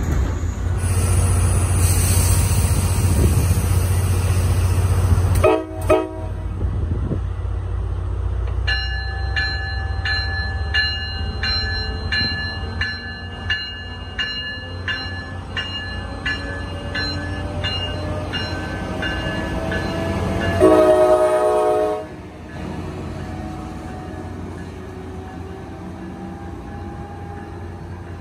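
A loud low rumble, as heard aboard a moving train, cuts off about five seconds in. A Tri-Rail commuter train then approaches: a bell rings steadily for about ten seconds, and an engine note slowly rises in pitch. A diesel locomotive horn sounds one long blast about 21 seconds in, the loudest moment.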